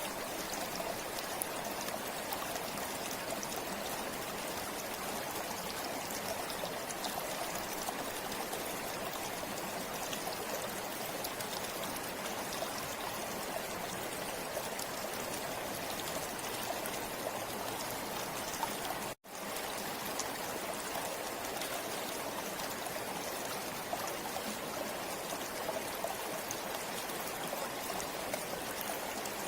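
River water flowing steadily, a continuous rushing and trickling. About two-thirds of the way through, the sound drops out for a split second and then resumes, like an edit joint.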